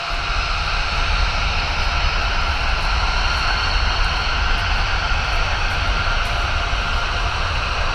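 Jet airliner engines running, a steady whine of several held tones over a heavy low rumble that comes in suddenly at the start.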